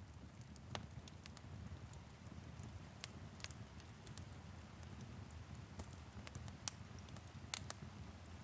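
Wood fire crackling in a fireplace: irregular sharp pops and snaps, a few louder ones, over the low steady rumble of the flames, with a soft patter of light rain on a window.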